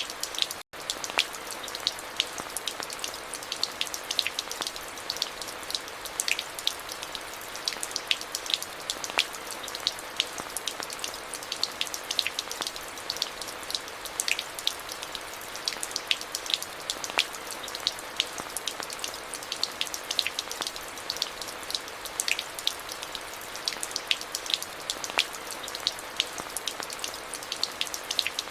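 Steady rain with many close, sharp drops pattering on a hard surface over a constant hiss. It cuts out for an instant less than a second in.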